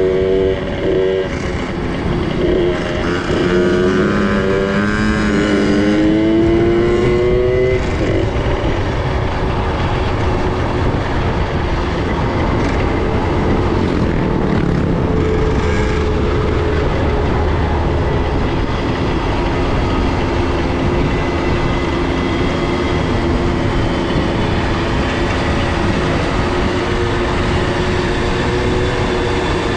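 Small two-stroke minibike engines running on the move. The engine note climbs several times in the first eight seconds as the throttle is opened, then settles into a steadier drone over a noisy rush.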